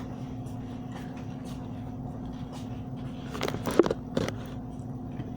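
Table noises of a meal, with small clicks and a brief clatter of sharp knocks about three and a half seconds in, over a steady low hum.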